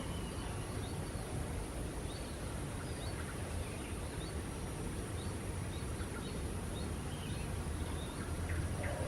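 Small birds giving faint, short chirps scattered through a steady low background hum.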